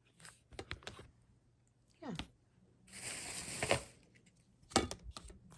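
Items and plastic packaging being handled: scattered light clicks and crinkles, a brief squeak about two seconds in and a rustle of plastic a little after three seconds.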